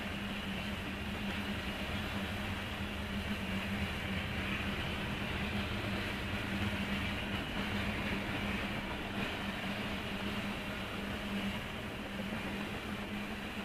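Freight train of tank cars rolling past, a steady rolling rumble and wheel noise heard muffled from inside a car, with a constant low hum underneath.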